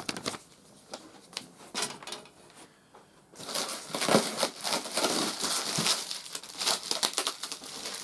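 Packaging being handled and crinkled during unboxing: a few scattered rustles and clicks, then steady, louder crinkling from about three seconds in.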